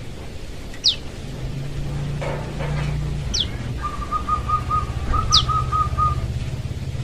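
Young prenjak lumut calling: three sharp, high whistled notes, each sliding steeply down, a couple of seconds apart. Through the second half runs a row of short, lower piping notes, about four a second, over a low steady hum.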